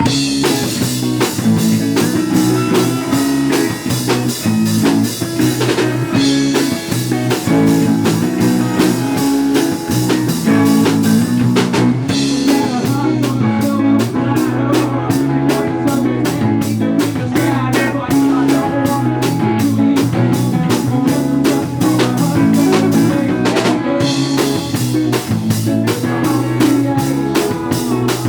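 A rock band playing a song live, with drum kit and guitar. The full band comes in right at the start, and the drum pattern changes about every six seconds.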